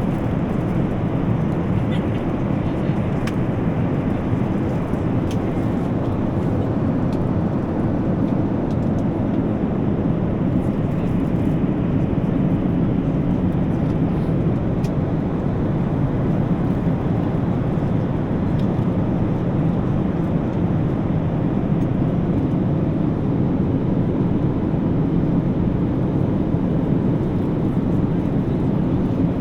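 Steady cabin noise of a Boeing 737 MAX 8 taxiing after landing: a constant low rumble from the CFM LEAP-1B engines at idle and the cabin air system.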